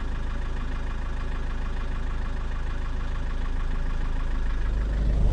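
Vehicle engine idling steadily, growing louder near the end.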